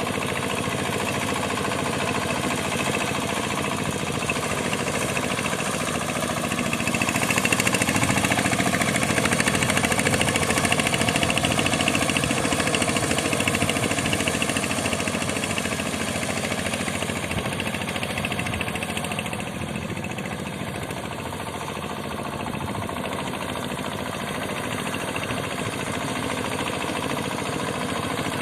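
Boat tractor's engine running steadily. It grows louder for several seconds about a quarter of the way in, then eases back.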